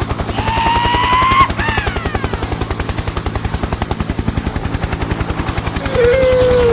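Tractor engine running with a fast, even chug. Short high-pitched squeaky tones sound over it, one rising about half a second in and one falling near the end.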